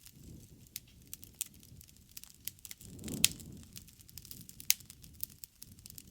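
Wood fire burning: irregular crackling and snapping over a soft low flutter of flame, with two loud pops about three seconds and four and a half seconds in.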